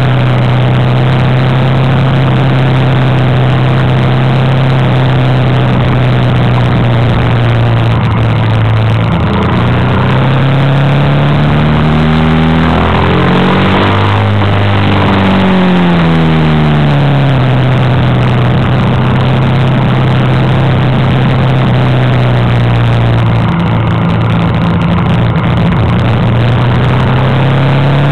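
Honda Africa Twin's V-twin engine running at steady revs while riding, heard from on the bike with wind rush. About halfway through the engine note falls and then climbs again as the bike eases off and pulls out of a bend.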